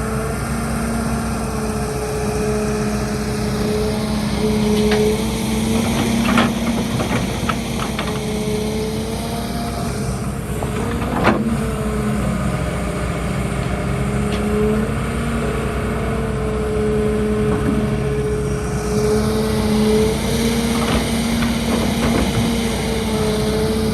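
Diesel engine of an excavator loading dump trucks, running steadily with its pitch rising and falling as the machine works. Several sharp clanks, the loudest about eleven seconds in, typical of the bucket and soil striking the truck bed.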